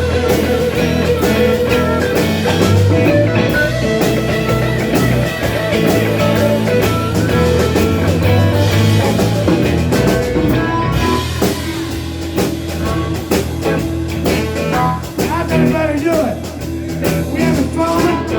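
Live band playing a blues-rock number, with guitar to the fore over a steady bass line and drums.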